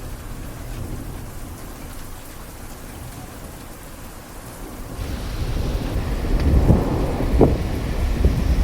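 Heavy rain falling in a steady hiss, growing louder about five seconds in, when a low rumbling also starts.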